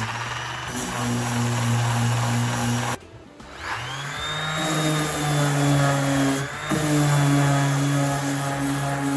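Electric power tool motor running, cutting out about three seconds in and spinning back up with a rising whine.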